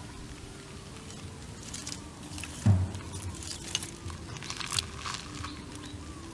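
Scattered crunching and rustling sounds, with one dull thud about two and a half seconds in.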